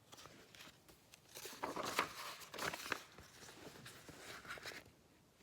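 Paper pages of a picture book being handled and turned, with a few irregular rustles and brushes, the loudest bunched about one and a half to three seconds in and again near four seconds.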